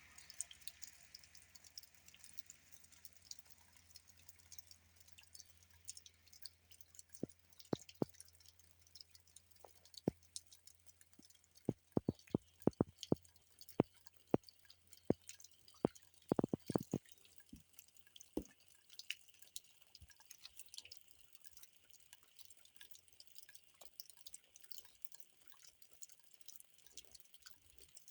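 Rainwater dripping: irregular single drops striking, thickest through the middle of the stretch, over a faint hiss.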